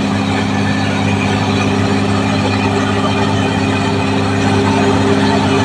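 Caterpillar D6R XL bulldozer's diesel engine running steadily, growing a little louder near the end.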